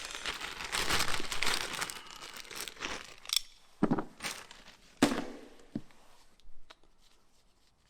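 Crinkling and rustling, like plastic packaging being handled, for the first couple of seconds, then a handful of separate light knocks and clicks of small parts being handled, dying away near the end.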